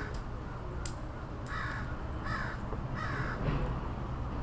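A bird calling outdoors: three faint, short, harsh calls a little under a second apart, over a low steady hum.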